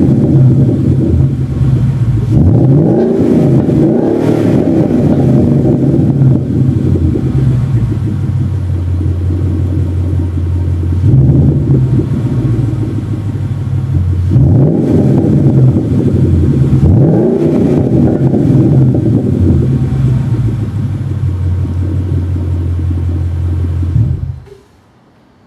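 2012 Mustang GT's 5.0 V8 through a Flowmaster American Thunder axle-back exhaust, idling with a deep rumble and blipped several times, each rev rising and falling back to idle. The sound cuts off suddenly near the end.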